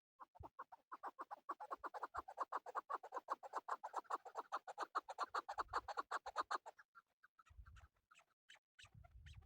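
Male chukar partridge calling: a fast run of short chuck notes, about nine a second, for some six seconds, then scattered single notes over a low rumble near the end.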